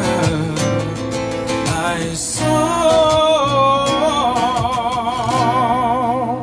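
Acoustic band music with guitar, and a long held melody note with strong vibrato entering about two and a half seconds in.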